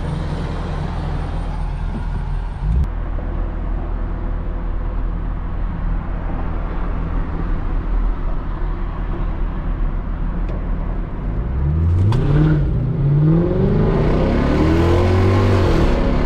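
Straight-piped Lexus SC430 V8 exhaust, with an X-pipe and no mufflers, droning steadily at a light cruise. About eleven seconds in it picks up, the pitch climbing and falling several times as the engine accelerates through the revs.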